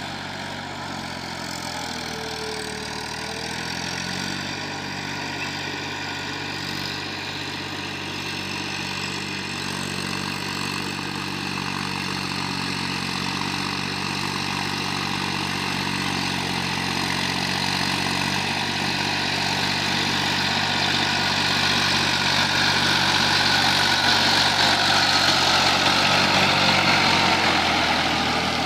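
Eicher 480 tractor's diesel engine running steadily, growing gradually louder toward the end and easing off just before it ends.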